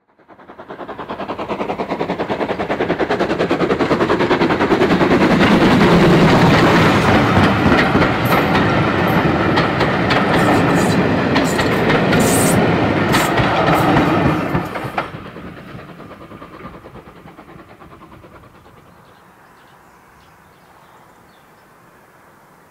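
Train passing close by: steel wheels of the coaches clattering and clicking over the rail joints, building over the first few seconds and loudest around six seconds in. The sound drops away abruptly about fourteen seconds in, leaving a low steady background.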